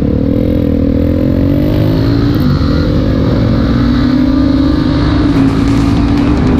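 Motorcycle engine accelerating under way, its pitch rising over the first couple of seconds, then holding steady at speed over a low rumble.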